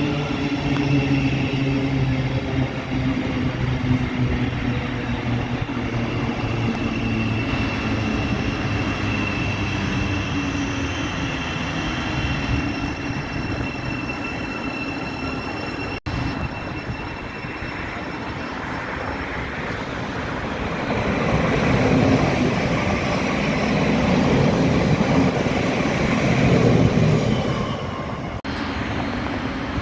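Passenger trains at a main-line station. First a train's traction equipment gives a steady hum with a thin high whine, both slowly falling in pitch. Then a train passes with a rushing rumble that swells and fades near the end.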